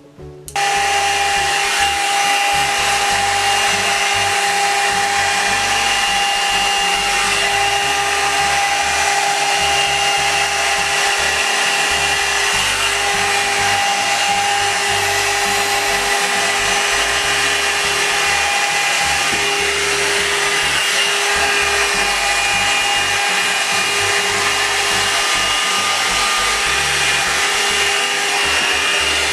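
Blow-dryer hot air brush switched on about half a second in, then running steadily: a loud rush of air over a steady motor whine.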